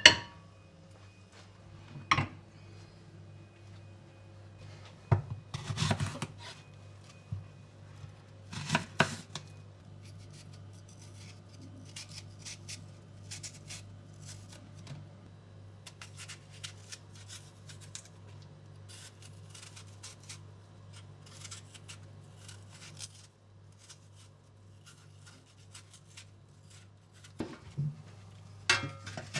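Kitchen prep sounds: a few sharp knocks and clatters in the first ten seconds, then a long run of small, light clicks and snips, over a steady low hum.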